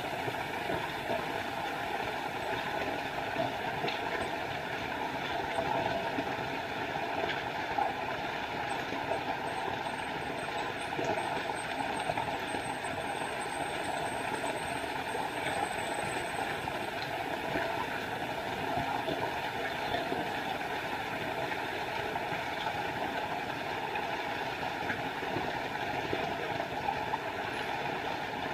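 Small forest waterfall: water falling and splashing in a steady, unbroken rush.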